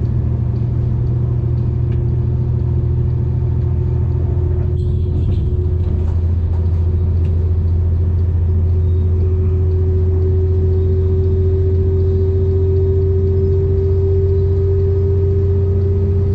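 V/Line diesel passenger train running along the track, heard as a steady low rumble with a faint engine note that slowly rises in pitch from about five seconds in.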